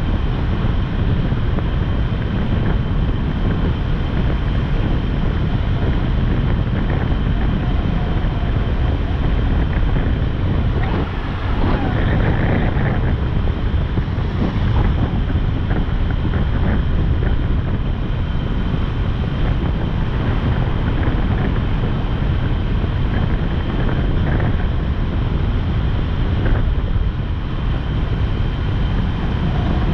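Wind rushing over the microphone on a moving motorcycle, with engine and road noise underneath. The wind rush changes briefly a little over a third of the way in.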